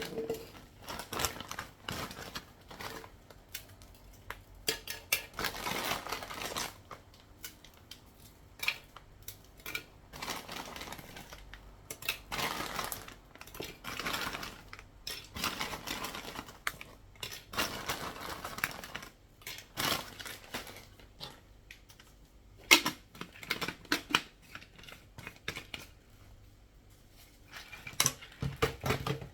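Dry, hard-baked toast pieces being handled and broken up for crumbs before blending: irregular crackling, rustling and clattering with sharp clicks, coming in bursts of about a second.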